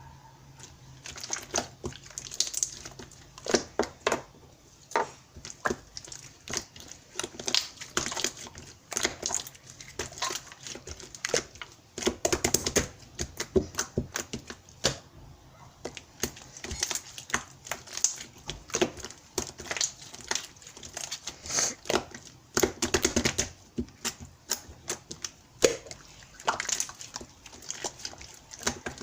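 Clear slime being squeezed and pressed by hand, making a rapid, irregular run of sticky clicks and small pops as trapped air bursts.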